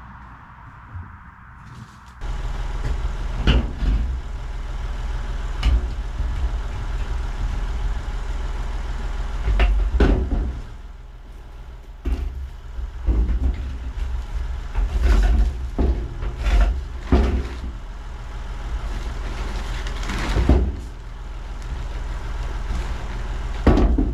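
Small diesel tractor engine running steadily, with repeated sharp knocks and rattles over it, typical of the tractor and its transport box jolting along. The engine sound cuts in suddenly about two seconds in.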